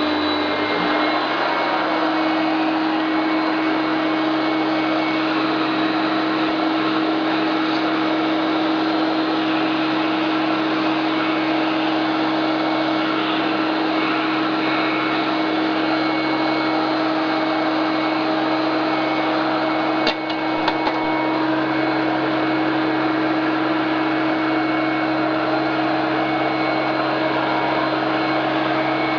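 Hoover Powermax self-propelled heavy-duty upright vacuum cleaner running steadily, its motor giving a constant hum over the rush of airflow. The pitch shifts slightly about a second in, and there are a few brief clicks about two-thirds of the way through.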